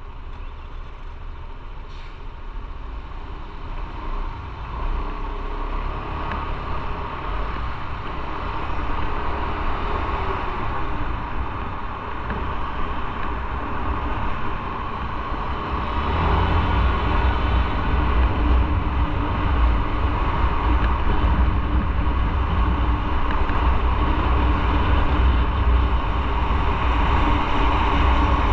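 Motorcycle on the move: engine running with road and wind noise, a steady low rumble that grows louder over the first half and steps up about halfway through.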